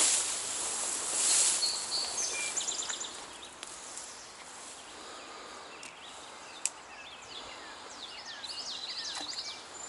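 Small birds singing in short chirps and trills over a steady outdoor background hiss, with a louder swishing rush in the first second or two and a single sharp click about two thirds of the way through.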